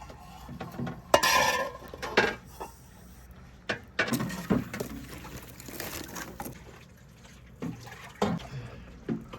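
Pots, dishes and utensils knocking and clinking, with a handful of separate sharp knocks and two brief stretches of rustling or splashing noise.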